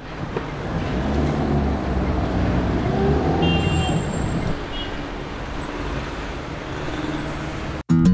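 Street traffic sound effect: motor vehicles running and passing with a steady rumble of engines and road noise, cutting off suddenly near the end.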